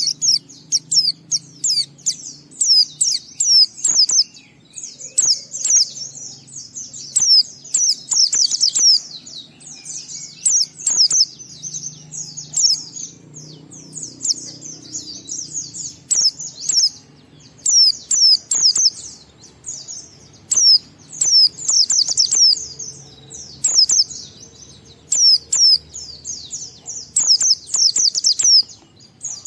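White-eye (pleci) singing in long, fast runs of high twittering chirps, the continuous 'ngalas' song that keepers use to lure other white-eyes into singing. The phrases last a few seconds each, with short breaks between them.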